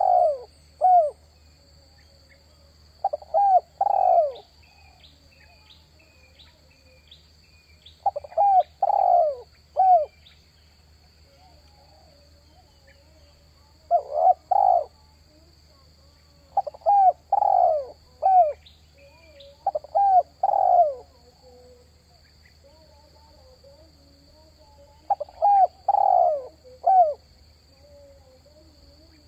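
Spotted dove cooing: short phrases of three or four quick coos, repeated every few seconds, about seven times. It is the call played to lure wild spotted doves.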